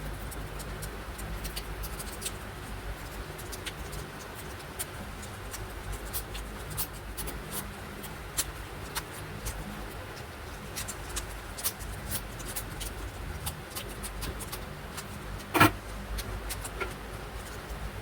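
Hands working craft materials: irregular small clicks and taps over a steady low hum, with one louder knock about three-quarters of the way through.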